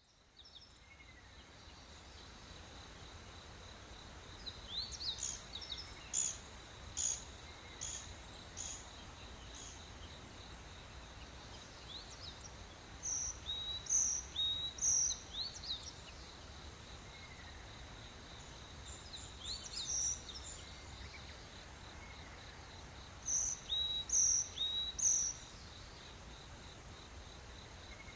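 Tropical rainforest dawn chorus: birds calling in groups of three or four short, bright notes every few seconds, over a steady high-pitched insect drone and a faint low rumble. The sound fades in at the start.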